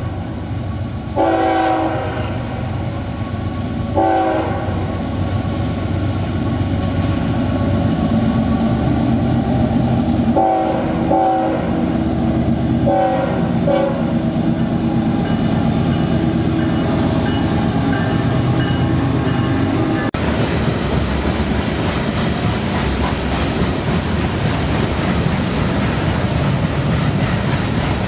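CSX GE diesel freight locomotive sounding its multi-note air horn in several short blasts as it approaches and passes, over its diesel engine rumble. After about the fourteenth second the horn stops, and a long string of freight cars rolls past with a steady wheel-on-rail clatter.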